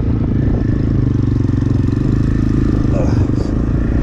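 Templar X 250 dirt bike engine running at a steady speed.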